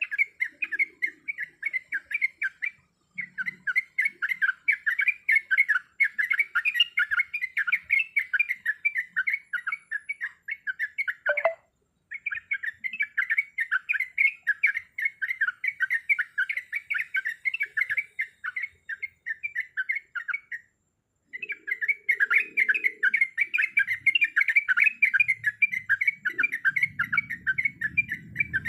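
Yellow-vented bulbul (trucuk) chattering: a fast, unbroken run of short chirping notes. It breaks off with short silences about 3, 11 and 21 seconds in.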